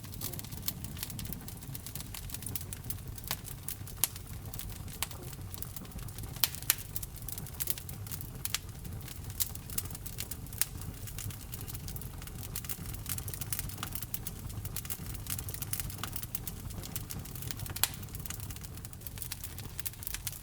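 Wood fire burning in a fireplace: a low steady rumble of flames with frequent irregular crackles and sharp pops of burning logs, a few louder snaps among them.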